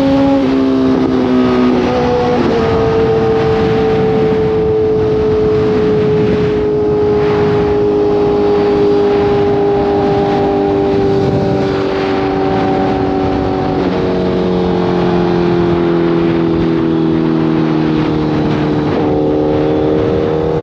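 Honda CBR1000RR's inline-four engine running at highway speed under a rush of wind noise. The engine note is mostly steady and sags slowly, changes pitch about two seconds in and again around fourteen seconds, and rises near the end.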